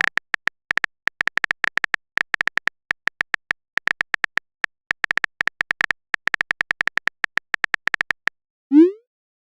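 Rapid, irregular run of short, high ticks from a phone-keyboard typing sound effect, a few keystrokes a second. Near the end, one short rising swoosh of a message-sent sound effect.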